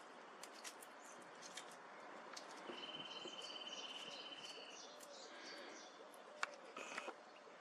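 Songbirds chirping faintly, with one steady trill lasting about a second and a half near the middle. Two sharp clicks come near the end.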